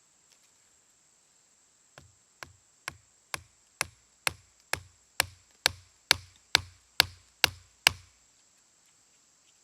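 A series of sharp wooden knocks, about two a second and fourteen in all, growing louder, then stopping: hemlock wood being struck while it is split or shaped for a bow drill set.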